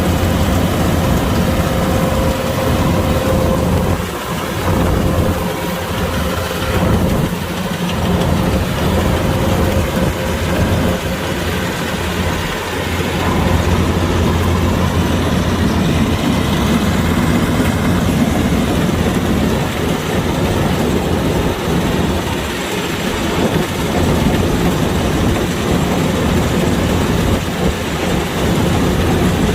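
Kubota DC-105X combine harvester running steadily, a constant engine hum with mechanical noise over it.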